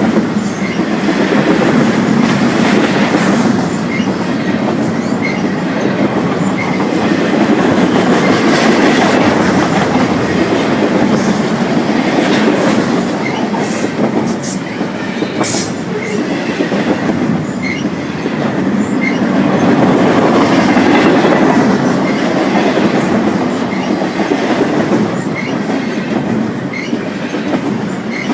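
Freight train cars rolling past on the rails: a steady rumble that swells and eases, with short high wheel squeaks every second or two and occasional sharp clicks.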